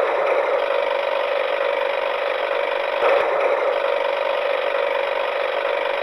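Small geared motor of a battery-powered toy running steadily, a constant whirr with a gear buzz.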